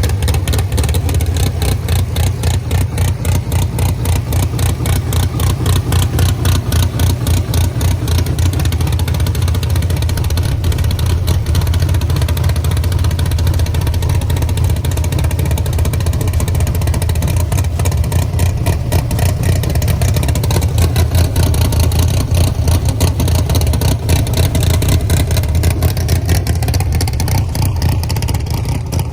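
Race truck engine running loud, a rapid rough firing pulse over a deep rumble that holds fairly steady.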